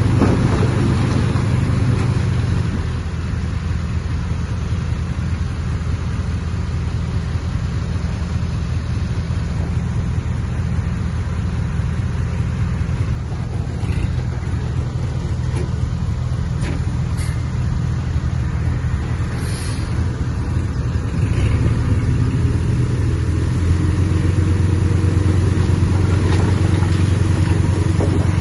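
Heavy diesel engine of earthmoving machinery running steadily under load, getting louder about three quarters of the way through.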